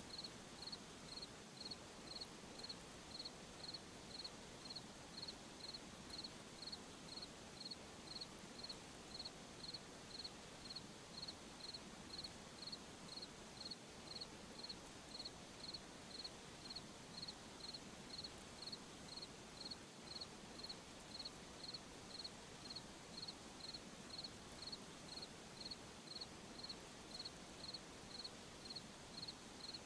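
A cricket chirping at a steady, even rate, about three short high-pitched chirps every two seconds, over a faint, even background hiss of night ambience.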